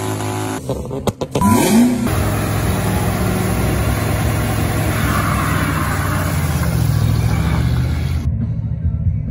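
Engine revving up and then held at high revs through a tyre-smoking burnout, with a steady rush of tyre noise. The highs drop out suddenly near the end while the low engine sound carries on.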